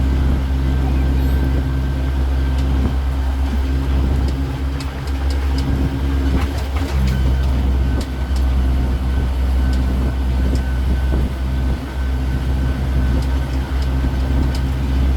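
Engine of a road-going tourist city tour train running in a steady low drone, with scattered light clicks and rattles.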